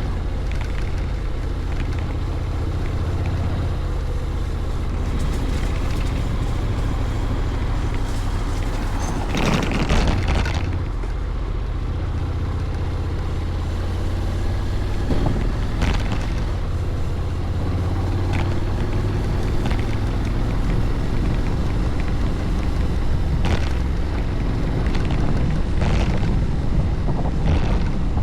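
Honda Forza 750 maxi-scooter's parallel-twin engine running steadily while riding, with wind rushing over the microphone. A stronger gust about ten seconds in, and a few brief knocks.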